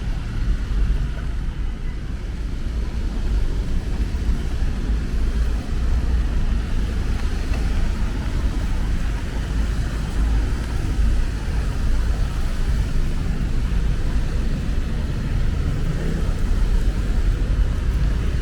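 Steady low rumble of city street traffic with an even hiss of rain over it, with no single event standing out.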